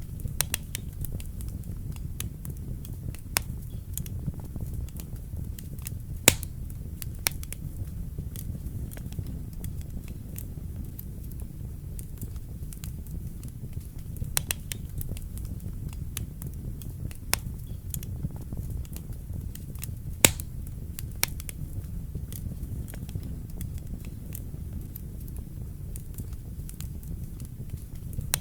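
Wood fire burning in a fireplace: a steady low rumble of flames with frequent small crackles and pops, two sharper pops standing out about six seconds in and about twenty seconds in.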